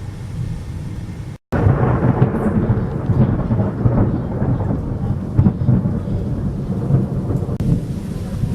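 Thunder rumbling over heavy rain in a strong electrical storm. The sound cuts out completely for a moment about a second and a half in, then the rumble comes back louder.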